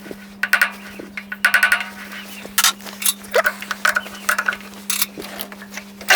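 Short clusters of light metallic clicks and taps at a metal lathe's chuck while a brass workpiece is set to run true, over a steady low hum.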